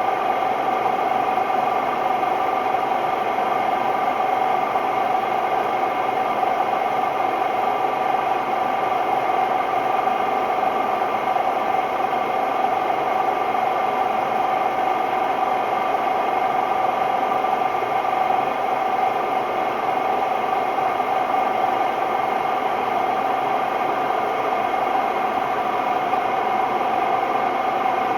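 Hotpoint Ultima WMD960 washing machine spinning at a steady speed, extremely noisy: a continuous drone with a steady whining tone, the sign of bad drum bearings.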